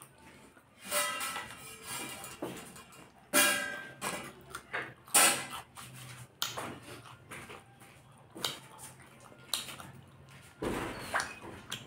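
Close-up mukbang eating sounds: wet chewing and lip-smacking on tandoori chicken, with irregular sharp mouth clicks, the loudest about three and a half and five seconds in. Near the end comes a rustle of handling as a fork goes into the noodles on the foil-lined plate.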